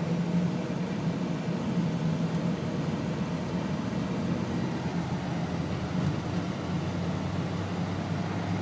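Steady low drone of a car being driven, with no changes or impacts.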